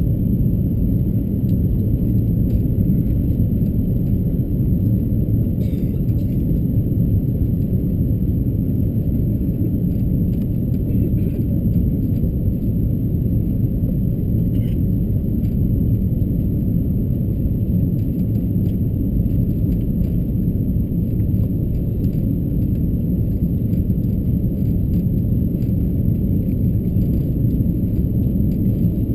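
Steady low rumble of an Airbus A330-223's engines and airflow heard from inside the passenger cabin, even throughout with no sudden changes.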